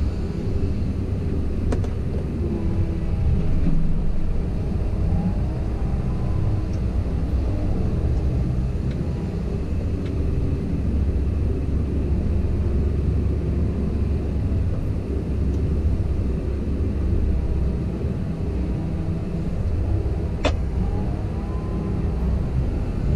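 Komatsu PC170LC-10 excavator's diesel engine running steadily under working load, with a wavering whine above the low rumble. There are two sharp clicks, one about two seconds in and one near the end.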